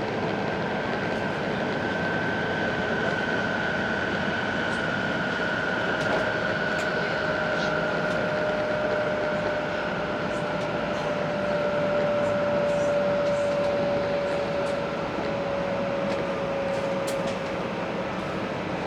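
Interior noise of a 500 series Shinkansen car in motion: a steady running rumble with an electric whine that slowly falls in pitch, as the train slows.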